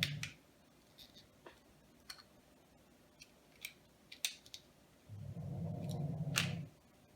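Small plastic Lego pieces clicking and tapping as they are handled and pressed onto the model, in scattered single clicks. About five seconds in, a low hum lasts for about a second and a half.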